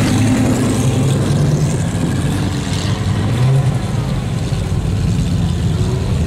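Lamborghini Gallardo V10 idling through a Lamborghini Orange County aftermarket exhaust, a loud, steady low rumble.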